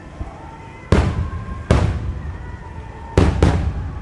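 No. 7 (about 21 cm) aerial firework shells bursting in rapid succession: four heavy booms, the first about a second in and the next under a second later, then two close together about three seconds in. Each boom is followed by a rolling echo.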